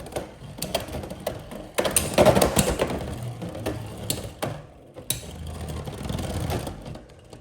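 Two Beyblade X spinning tops, Silver Wolf 1-60 Rush and Hover Wyvern 9-60 Kick, spinning and clashing in a plastic stadium: a run of sharp clicking hits, a loud rattling scrape about two seconds in and another about five seconds in, then the noise dies down near the end as a top runs out of spin.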